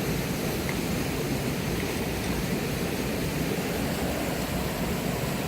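Mountain stream rushing: a steady, unbroken wash of water noise.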